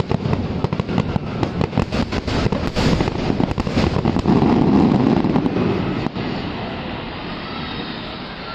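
Fireworks going off in a rapid barrage of bangs and crackles, which stop about six seconds in, leaving a fading rumble.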